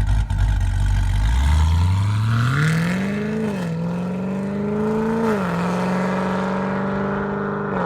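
Supercharged LSA V8 of a Chevrolet SS, breathing through long-tube headers, an X-pipe with the resonators deleted and the stock bimodal mufflers, accelerating hard. Its pitch climbs steadily, drops sharply twice, about a third and two thirds of the way through, and climbs again after the first drop, then holds steady.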